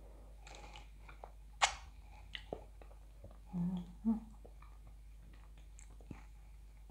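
A person chewing food close to a lapel microphone, with soft wet mouth clicks and a sharper click about a second and a half in. A couple of short hummed 'mm' sounds come around the middle.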